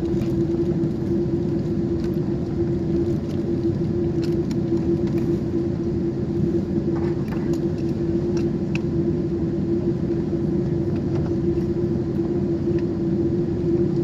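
Cabin noise inside a Boeing 747: the steady rumble of the engines and airflow with a constant hum, unchanging throughout, and a few faint clicks.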